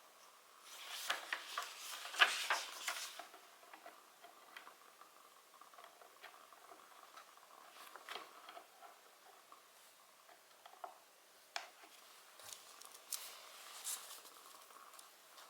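Wood fire crackling: scattered sharp pops and snaps, with a denser flurry of crackles about one to three seconds in and another near the end.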